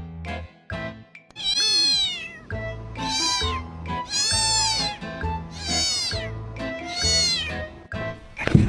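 A cat meowing five times, each meow rising then falling in pitch, over background music.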